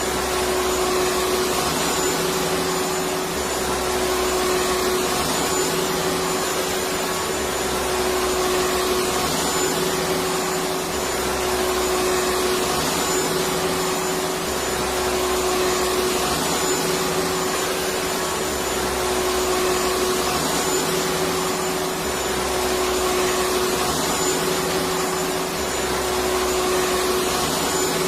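Electric vacuum cleaner running continuously: a steady dense whoosh of air with a constant motor hum and a faint high whistle, and a low rumble that swells and fades every two seconds or so.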